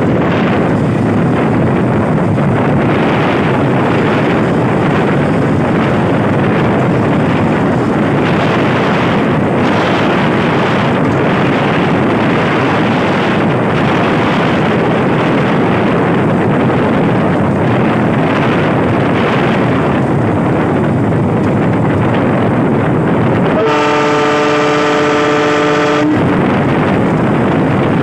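Train running at speed: a steady rushing noise of wind and wheels on the rails. Near the end the locomotive's horn sounds once, a single blast of several tones at once lasting about two seconds.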